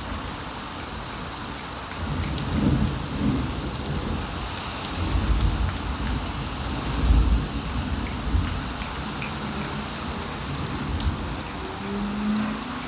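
Heavy rain falling steadily in a thunderstorm, with low rolling thunder that swells a couple of seconds in and is loudest about five to eight seconds in.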